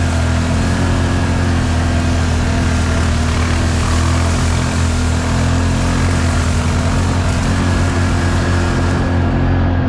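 ATV engine running at a steady, even speed, close to the microphone.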